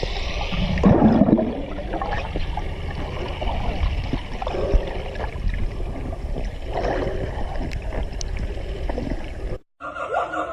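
Water sloshing and gurgling over a steady low rumble, muffled as if heard underwater or at the waterline; it cuts off abruptly near the end.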